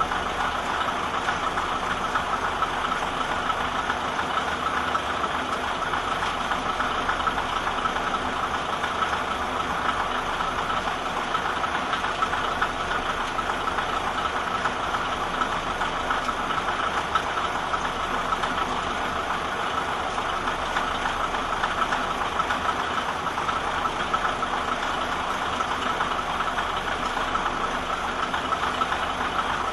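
KiHa 52 diesel railcar's engine idling steadily with a knocking diesel clatter.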